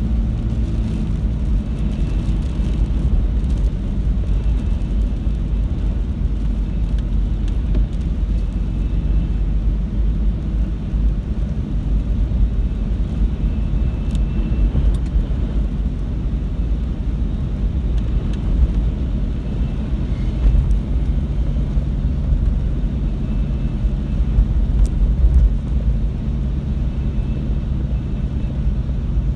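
Steady low rumble of a car driving: engine hum and road noise, with a few small clicks.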